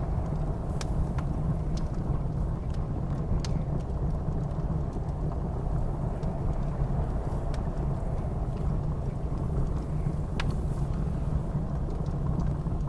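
Wood fire crackling with sharp, scattered pops over a steady low roar of blizzard wind.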